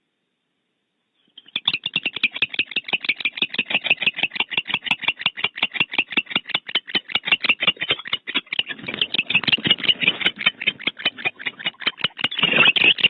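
Barn owl calling in a fast run of short, rasping pulsed notes, about six a second. It starts about a second in and grows louder near the end.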